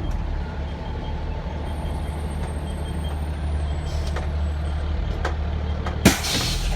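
Fire truck driving, its engine and road noise a steady low rumble heard from inside the cab. About six seconds in, a sharp pop and a short hiss of air from the truck's air brakes.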